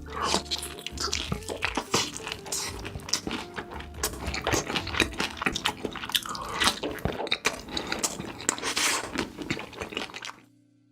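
Close-miked mukbang eating: crunching bites and wet chewing of sauce-covered food, with faint background music underneath. It cuts off suddenly near the end.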